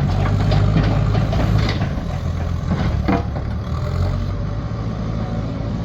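Large truck engine running steadily with a low rumble.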